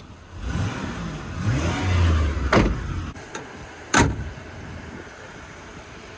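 Car engine revving up briefly, with two sharp knocks about a second and a half apart, then settling to a low steady hum.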